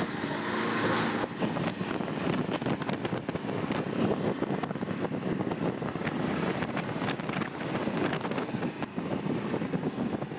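Boat engine running steadily while underway, with wind buffeting the microphone.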